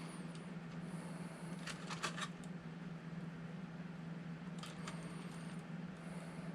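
A few soft clicks and scrapes of small plastic parts being handled on a 1/24-scale RC crawler's front axle, twice, over a steady low hum.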